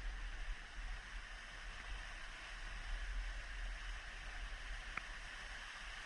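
Water of a forest stream running over rocks near the head of a waterfall: a steady hiss of flowing water.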